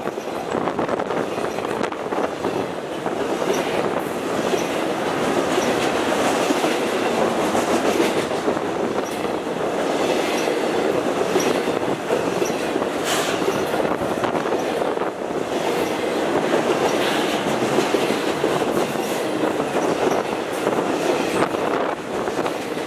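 Long freight train of truck trailers on flatcars rolling past: a steady rumble and rattle of the cars and wheels on the rails, with scattered light clicks.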